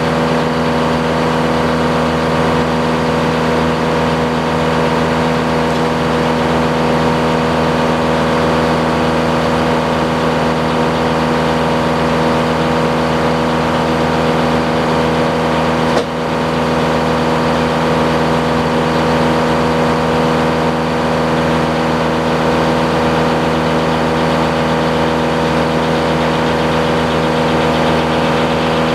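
Sawmill engine running steadily under load while the blade saws through a cherry log. The pitch holds even throughout, with one brief dip and a click about halfway.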